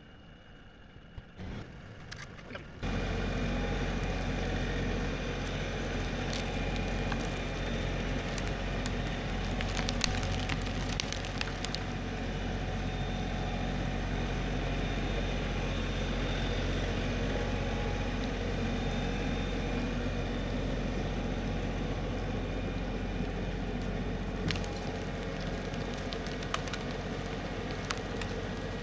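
Tractor engine running steadily, coming in suddenly about three seconds in, while a felled tree is dragged out on a chain. Sharp cracks and crunches of branches breaking cluster around ten seconds in, with one more near the end.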